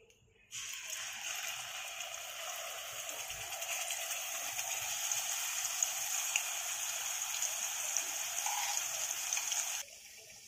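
Wet ground onion-and-coconut masala paste sizzling as it hits hot oil in a kadhai: a steady hiss that starts about half a second in and cuts off abruptly near the end.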